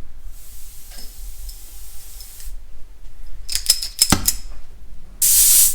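Oxy-fuel gas torch hissing: a faint hiss at first, then a short loud burst of hissing near the end. Sharp metallic clicks and clinks come in between, about midway.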